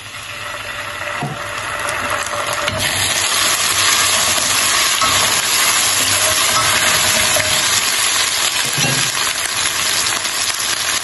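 Ginger-garlic paste and sliced onions sizzling in hot oil in a non-stick frying pan, stirred now and then with a spatula. The sizzle swells over the first few seconds and then holds steady.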